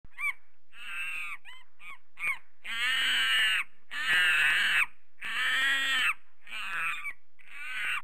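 A bird giving a run of harsh calls: a few short, clipped notes at first, then longer drawn-out calls of about half a second to a second each, the loudest in the middle.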